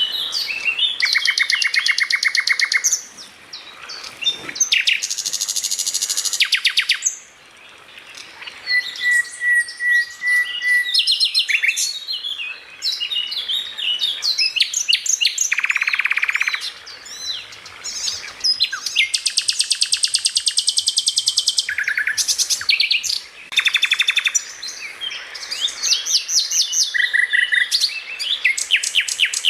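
Songbird song from a masteran (bird-training) recording: a dense string of high, rapid trills and rattles of fast-repeated notes, each phrase a second or two long, with short gaps and one steadier run of whistled notes a little before the middle.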